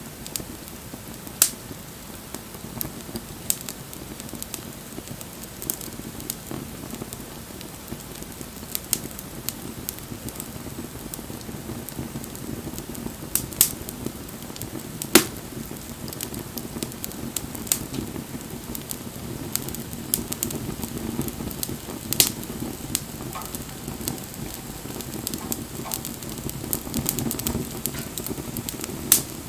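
Wood fire burning: a steady low rush of flame with irregular sharp crackles and pops from the wood, a handful of them much louder than the rest.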